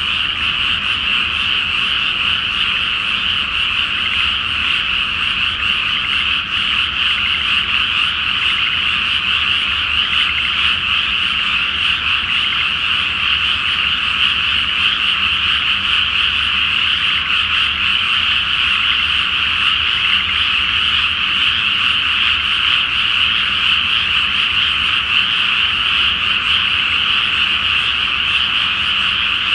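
A large chorus of frogs calling in a flooded rice paddy, countless croaks overlapping into one continuous, steady mass of high-pitched sound.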